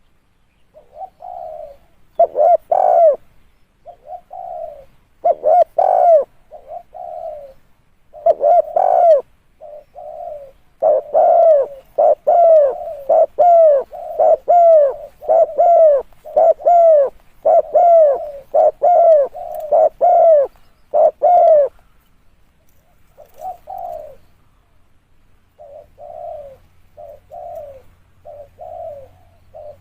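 Spotted dove cooing: a long run of short, repeated coo notes, loud and close together in the middle and softer and sparser near the end.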